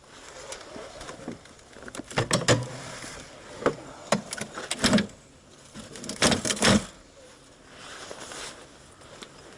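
A series of sharp knocks and clatters in several clusters, loudest about two seconds in and again around six seconds, over a faint hiss.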